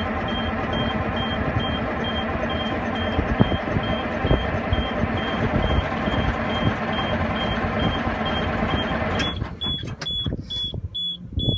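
Cold Detroit diesel truck engine cranking over on the starter without catching, fuel going through unburnt; the cranking stops about nine seconds in. A high warning beep repeats about three times a second throughout.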